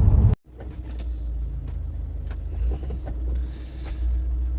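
Van running, heard from inside the cab: a steady low engine and road rumble. About half a second in, the sound drops out for a split second at an edit and comes back quieter.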